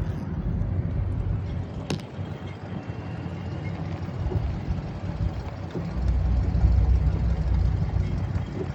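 Low, steady rumble of a car's engine and road noise, growing louder about two thirds of the way through, with one sharp click about two seconds in.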